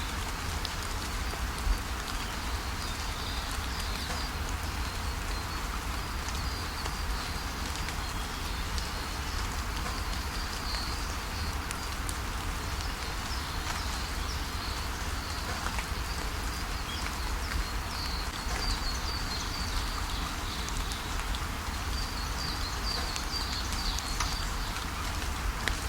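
Steady rain falling, with scattered drips, over a continuous low rumble, while small birds chirp in short high notes on and off throughout.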